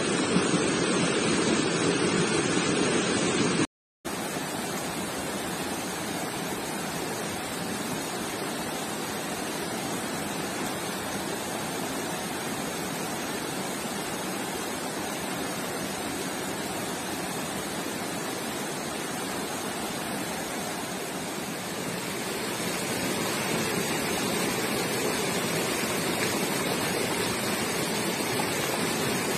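Creek water rushing steadily, with a brief break about four seconds in, slightly louder over the last few seconds.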